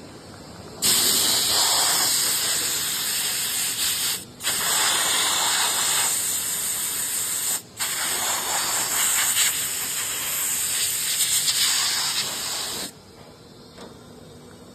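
A loud, steady hiss of rushing air that starts suddenly about a second in, breaks off twice for a moment, and stops suddenly near the end.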